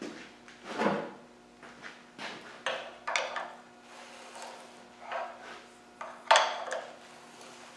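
Irregular clunks and scrapes of metal tools and engine parts being handled, about eight separate knocks with the sharpest about six seconds in, over a faint steady hum.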